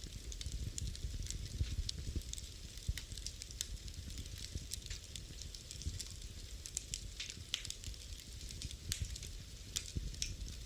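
Wood fire in a fireplace burning with frequent, irregular sharp crackles and pops over a steady low rumble of the flames.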